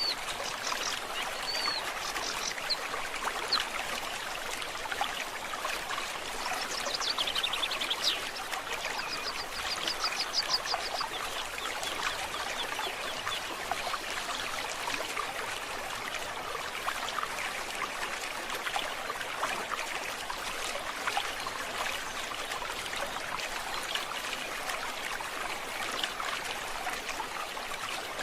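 A forest stream trickling steadily, with birds chirping over it during the first ten seconds or so, including a falling call and a fast trill.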